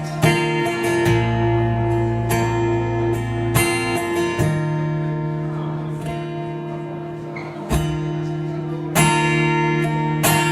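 Acoustic guitar strummed, chords ringing with the bass note changing every few seconds.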